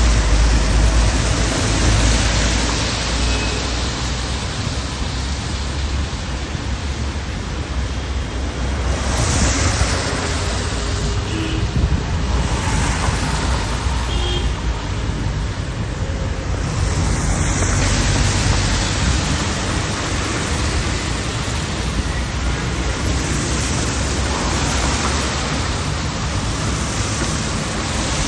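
Wind buffeting the microphone outdoors: a steady rushing noise with a heavy low rumble that swells and eases every few seconds.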